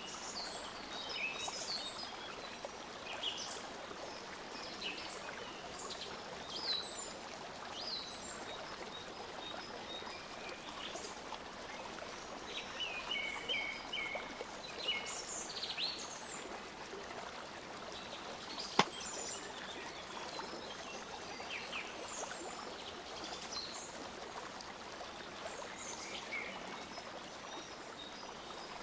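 Steady background hiss with short high chirps of small birds scattered through it, busiest about halfway through, and one sharp click a little past the middle.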